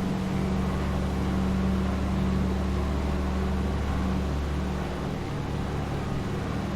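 The twin radial piston engines of a Douglas DC-3 running with a steady drone.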